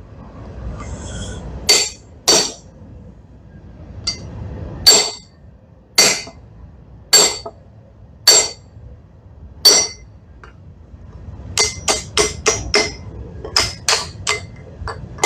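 Blacksmith's hammer striking steel on an anvil while forging an axe head, each blow ringing. Single blows come about a second apart, then quicker runs of lighter strikes near the end.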